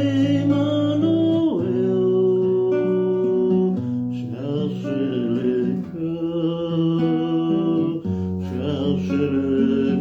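Music: a French song performed live on acoustic guitar, with chords that change every second or two.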